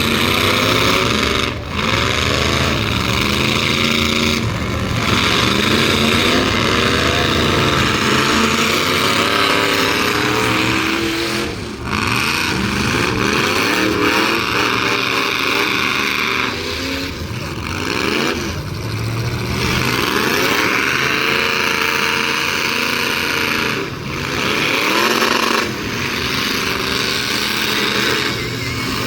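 Several demolition derby trucks' engines running hard and revving up and down together, their pitches rising and falling over one another without a break.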